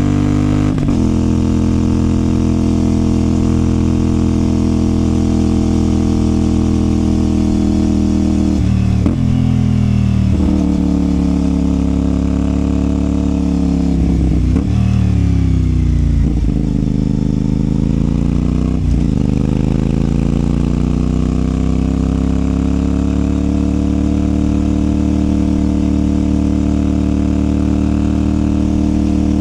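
CFMOTO 450SR parallel-twin engine and exhaust heard from the rider's seat: a steady cruising note, then several quick gear changes with the engine note dipping and climbing again between about nine and nineteen seconds, then a long gradual rise in pitch as the bike pulls through a gear.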